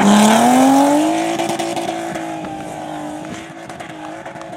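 Rally car engine under hard acceleration, its pitch rising over the first second and then holding steady as the sound fades away.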